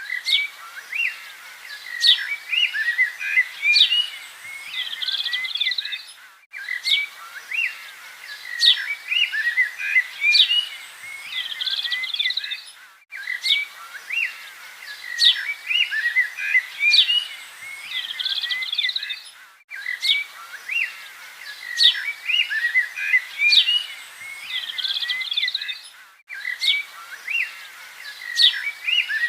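Several songbirds singing together in a dense chorus of quick, high chirps and whistles. The same few seconds of birdsong repeat about every six and a half seconds, each time after a brief dropout, as a looped recording.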